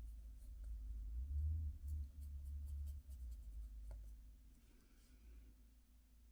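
Hands working at a table on nail products: a low rumble of handling and bumping, with scattered light clicks and a brief soft scratching about five seconds in.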